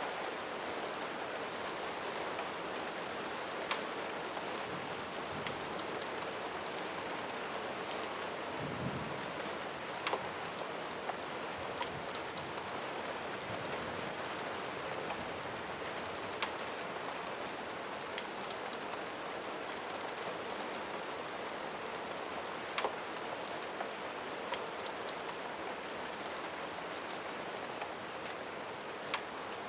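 Steady rain falling on a surface, with a sharp click or pop every few seconds.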